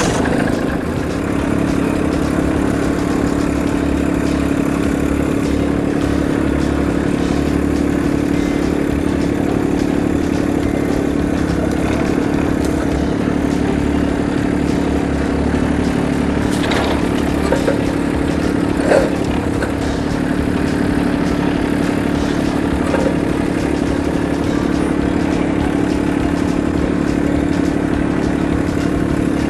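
Kubota LX2610 compact tractor's three-cylinder diesel engine running steadily, with a couple of short knocks a little past the middle.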